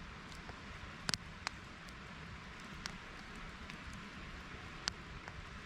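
Wood campfire crackling, with a few sharp isolated pops, over a steady soft hiss that the camper takes for a light drizzle.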